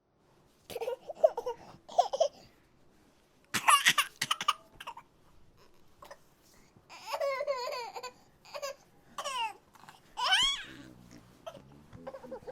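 High-pitched voice laughing and babbling in several separate bursts, with squealing glides that rise and fall in pitch.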